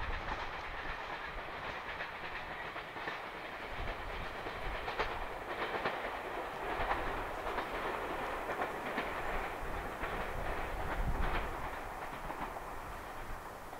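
JR Hokkaido Kiha 283 series diesel limited-express train running away along the line: wheels clicking over the rail joints over a steady diesel rumble, easing off near the end as it draws away.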